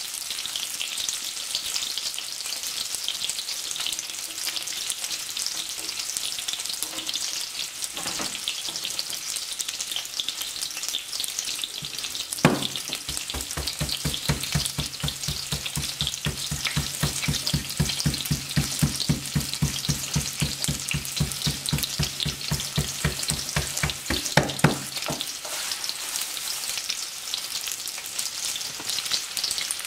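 Onion and garlic frying in lard, a steady sizzle. Through the middle a rapid, even ticking of about five a second runs for some twelve seconds, opening and closing with a sharp knock.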